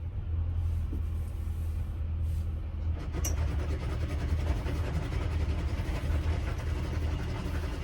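Boat engine running steadily at low revs. From about three seconds in, an anchor windlass joins it, rattling as it pays out more anchor chain to reach a five-to-one scope.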